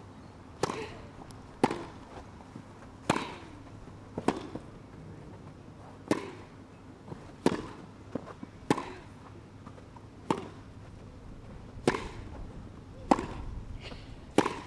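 Tennis rally: a ball struck back and forth by racket strings, a sharp hit about every second or so, with fainter bounces between them, about a dozen in all.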